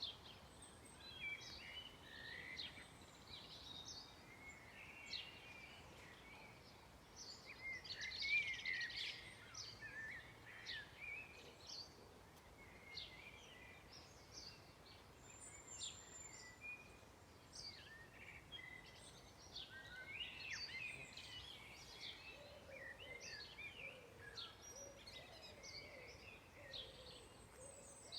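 Several songbirds singing, short overlapping chirps and trills, faint, with a busier burst of song about eight seconds in and again about twenty seconds in. A faint low drone comes in near the end.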